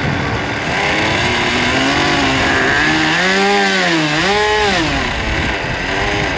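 Small internal-combustion engine of an RC model airplane running at high revs, its pitch rising, dipping about four seconds in, rising again and then falling.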